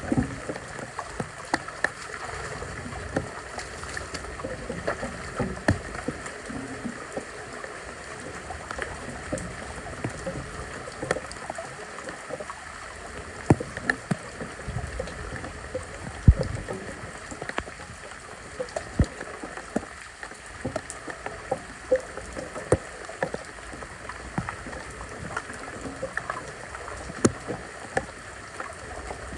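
Floodwater running and gurgling, with irregular knocks and scrapes throughout; the sharpest knock comes about halfway through.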